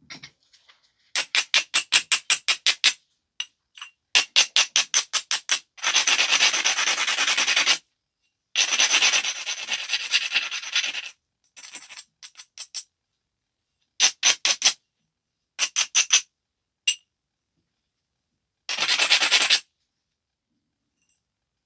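Edge of a stone biface being scraped with an abrader to prepare the platforms for flaking. It comes in bursts of quick back-and-forth strokes, about seven a second, and two longer stretches of steady rubbing, with pauses between.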